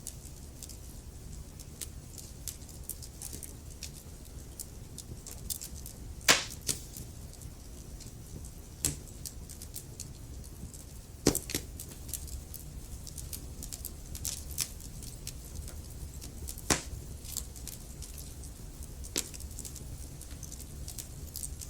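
Wood logs burning in a fireplace, crackling steadily over a low rumble, with a few sharp, louder pops.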